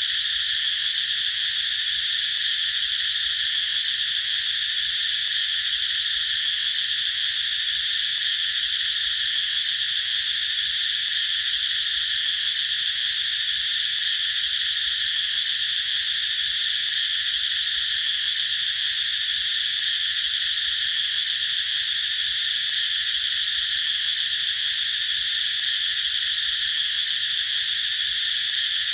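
A chorus of cicadas singing, a steady unbroken high-pitched drone.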